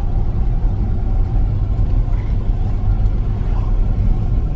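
Steady low rumble of a running truck, heard from inside the cab.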